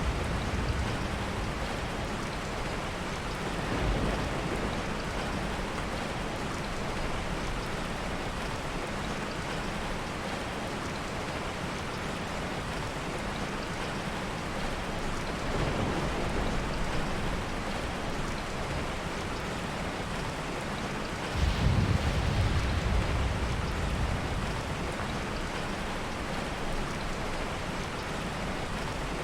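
Heavy rain falling steadily, with soft thunder rumbling in the low end; a louder roll of thunder breaks in suddenly about two-thirds of the way through.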